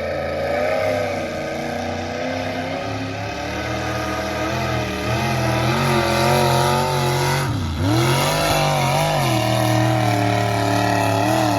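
A pulling truck's engine running hard under load, its pitch wavering. About eight seconds in the revs drop sharply and climb back.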